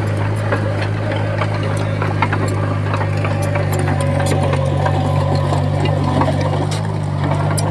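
Heavy diesel engine of earthmoving machinery running steadily at a constant pitch, with scattered light clicks and clanks over it.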